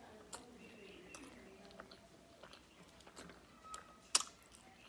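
Close-miked mouth sounds of a person chewing a mouthful of rice and koi fish curry with lips closed: soft wet smacks and small clicks, with one sharp click about four seconds in.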